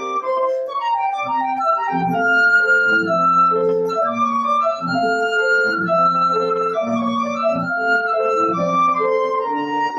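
A student's flute plays a slow, legato melody of long held notes over piano accompaniment in steady chords.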